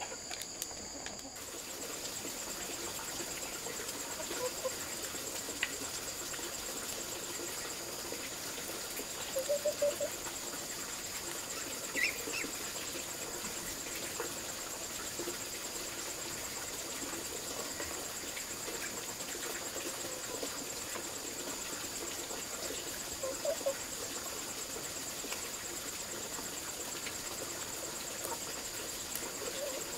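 Insects, crickets or similar, chirring steadily at a high pitch, with a few short animal calls now and then.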